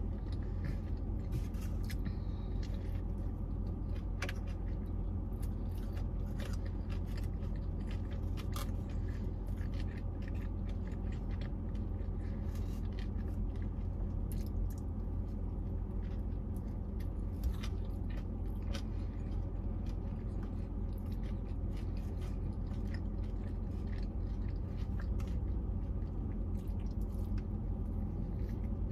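Close-up chewing and biting of McDonald's food, with scattered short crunchy clicks and the scrape of a cardboard food box. A steady low hum runs underneath.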